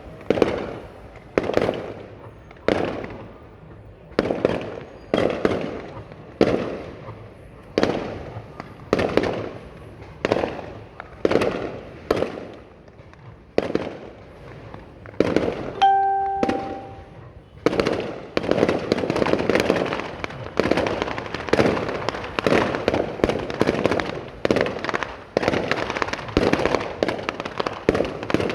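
Fireworks display: bangs about once a second, each trailing off in an echo. From about two-thirds of the way through they become a dense, near-continuous volley. Just before the volley a short steady tone sounds.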